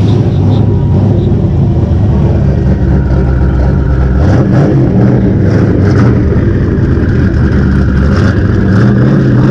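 Loud car engine running with a steady, low rumble that shifts slightly in pitch about four seconds in.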